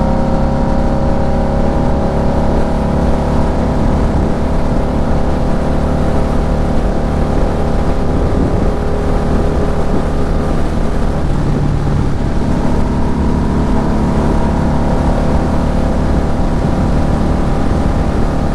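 Harley-Davidson Night Rod Special's liquid-cooled V-twin running under way on the road. Its note sinks slightly over the first few seconds and climbs again in the second half.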